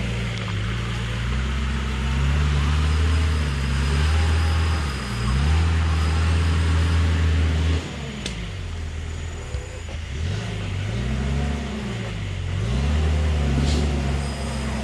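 Off-road 4x4's engine pulling under load, held steady at first and then revving up and down repeatedly in the second half.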